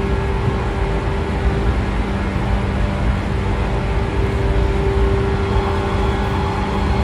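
113 series electric train running at a steady speed, heard inside the motor car: the MT54 DC series-wound traction motors give a whine held at one pitch over the low rumble of the DT21B bogies on the rails.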